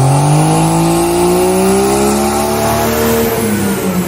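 Dodge Ram's Cummins inline-six turbodiesel under full throttle on a baseline power run, engine note rising steadily in pitch for about three seconds, then dropping back near the end.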